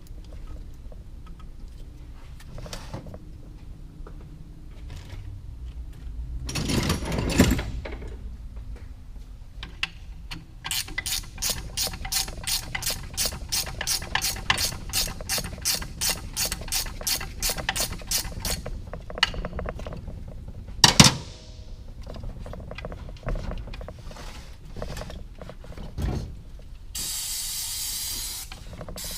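Hand ratchet wrench clicking steadily at about three clicks a second for some eight seconds while a bolt is turned, after a brief rattle of tools. Then a single sharp metallic knock, and near the end the steady hiss of an aerosol spray.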